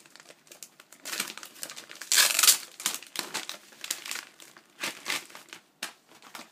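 Wrapping paper on a gift being crinkled and torn open by hand, in irregular rustling bursts, loudest about two seconds in.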